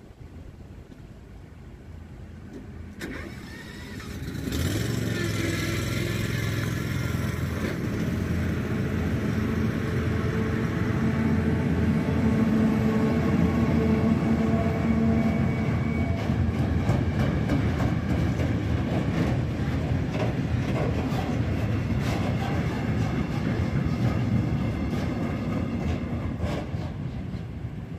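A train passing over the level crossing: a loud run-by that builds up about four seconds in, a steady rumble with a humming drone, and a string of short clicks in its second half, easing off near the end.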